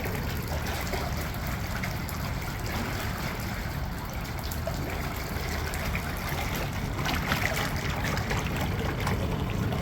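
Yamaha 8 hp four-stroke outboard running steadily in forward gear, with water trickling and splashing. It runs smoothly now that its clogged carburetor jets have been cleaned and the carb tuned.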